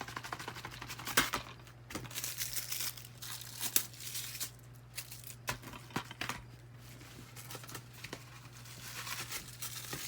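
The wrapping of a DVD case being torn and crinkled off by hand, in irregular rustling scrapes with a few sharp snaps.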